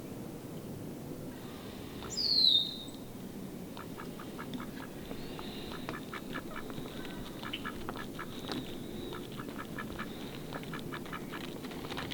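Mallards calling with a long run of short, soft quacks, rapid and irregular, from about four seconds in. A single loud, high call falls in pitch about two seconds in.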